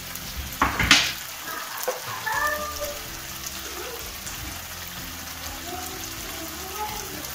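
Capsicum and onion frying in sauce in a wok, a steady sizzle, with a brief clatter about a second in.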